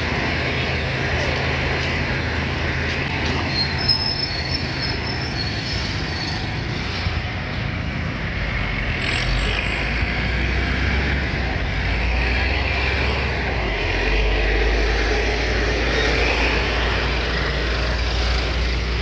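Car driving: steady engine and road noise, with the low engine note dropping about halfway through and a faint high whine a few seconds in.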